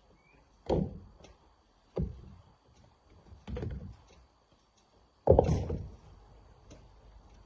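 Four heavy, irregularly spaced thuds of rocks being handled, the loudest and longest about five seconds in.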